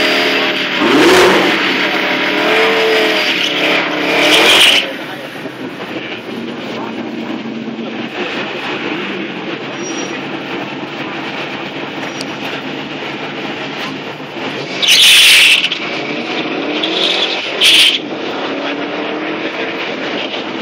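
Drag-race car engines revving hard in short blips at the starting line, with steady engine noise between them. About fifteen seconds in comes the loudest burst, a car launching at full throttle, and a shorter sharp burst follows a couple of seconds later.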